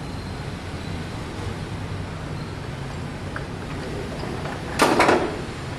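A steady low hum, broken about five seconds in by one short, loud burst of noise with a sharp start, lasting about half a second.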